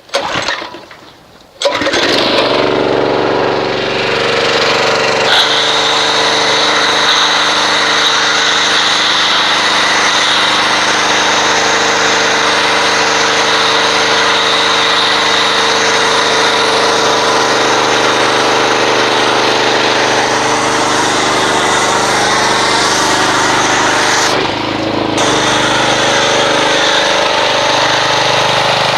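Pressure washer starting up about two seconds in, then running loud and steady while driving a foam cannon, with a hiss of spray over the machine's hum. The sound dips briefly near the end.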